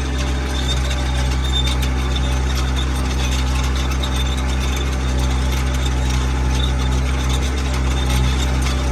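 Caterpillar skid steer's diesel engine running at a steady speed.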